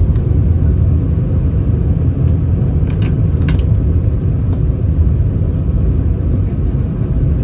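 Airbus A319 cabin noise heard from inside: a steady low rumble from the CFM56 engines and airframe, with a few short clicks about three seconds in.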